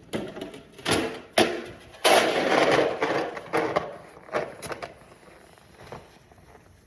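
Snow shovel scraping and pushing snow in a series of strokes, with a sharp knock about a second and a half in and a longer scrape of about a second just after. The strokes grow fainter toward the end.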